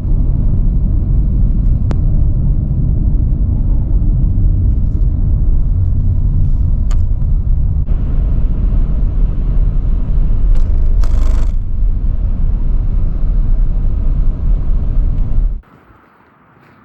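Strong gusty wind buffeting the microphone: a loud, low rumble with a few faint clicks, cutting off abruptly near the end.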